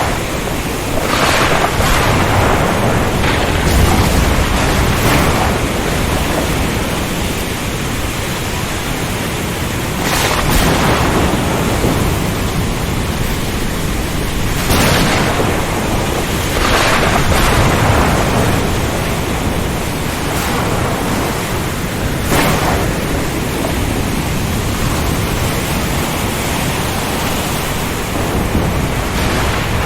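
Storm at sea: a steady rush of wind and rain over a low rumble, with louder surges several times, about every few seconds.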